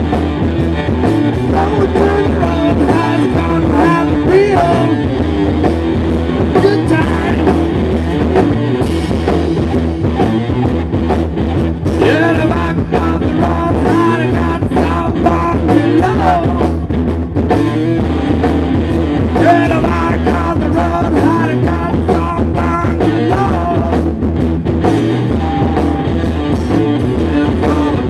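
Rock music with guitar, bass and drum kit playing steadily, with singing at times.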